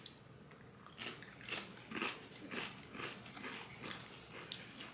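Pringles crisps being chewed with the mouth close to the microphone: a run of crunches, about two a second.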